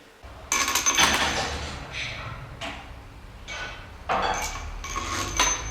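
Metal engine parts and tools clanking and scraping as a cylinder head and its bolts are handled on a Toyota 3L diesel block: a string of separate knocks and scrapes, some with a short high metallic ring.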